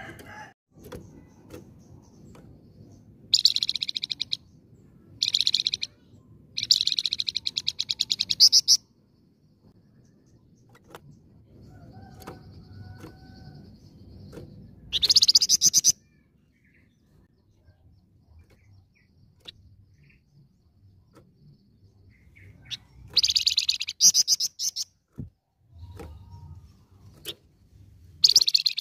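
A flamboyan songbird singing in loud bursts of rapid, repeated high notes, each burst one to two seconds long, with pauses of a few seconds between them.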